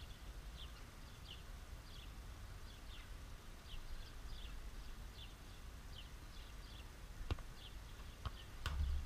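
Small birds chirping, short high downward chirps repeating a couple of times a second, over a low steady rumble. Near the end come a few sharp knocks and one louder, duller thump.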